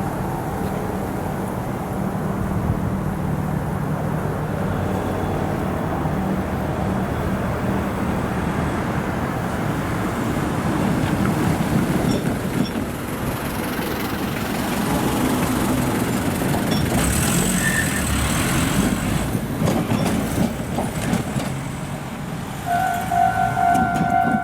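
Meitetsu electric trains running through the junction: a steady noise of wheels on rails and motors that swells through the middle. Near the end a railway level crossing's electronic warning bell starts up with a fast, evenly repeating ding.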